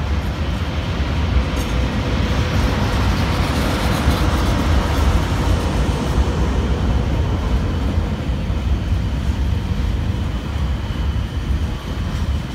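A TGV Duplex double-deck high-speed train passing close by, a steady rumble and rush of wheels on rail that grows brighter and louder about two seconds in, with a faint steady whine underneath.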